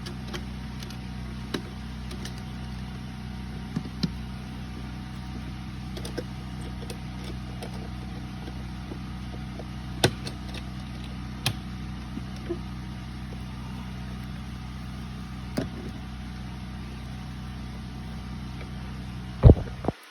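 Air conditioner unit running with a steady low hum. A few light clicks and taps are scattered through it, and two loud knocks come near the end.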